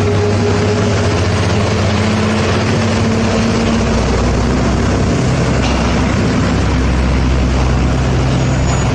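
A heavy truck's engine running steadily under load, a loud low drone with road noise and no change in pitch.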